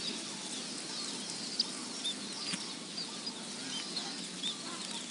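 A flock of sparrows chirping: many short, high chirps, several a second, overlapping over a steady background hiss.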